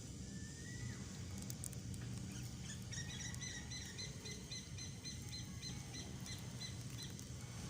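A bird calling: a short rising whistle, then a long run of short, evenly repeated chirps, about three a second, that stops shortly before the end. A steady low rumble runs underneath.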